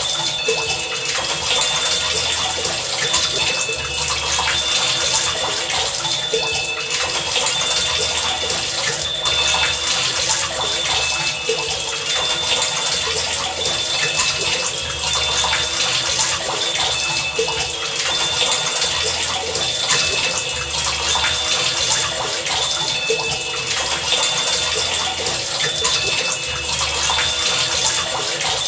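Heavy rain falling steadily. Short high pitched tones and low pulses recur every couple of seconds over the rain.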